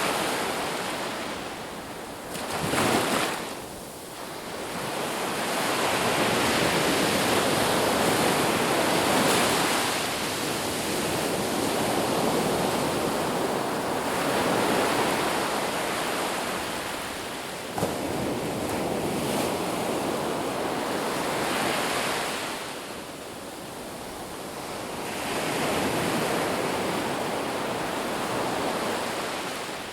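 Sea waves breaking and washing up the shore, the surf swelling and ebbing every few seconds. A short louder surge comes about three seconds in.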